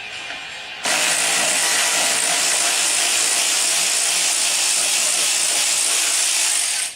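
Welding arc, a steady, even hiss that starts abruptly about a second in and cuts off just before the end.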